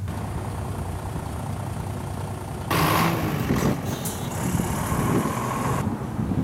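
Road traffic at a city intersection, with engines running. About three seconds in, a vehicle passes close by, louder and hissier for about three seconds, then the traffic drops back to a steady rumble.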